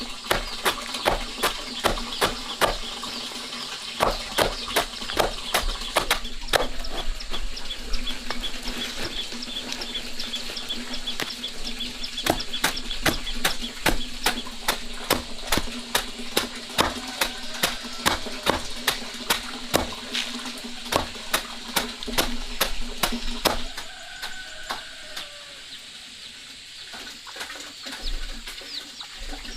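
A steady run of sharp knocks, about two to three a second, that stops about 24 seconds in, with a steady hum under it and faint high chirps, like chicks or small birds, in the background.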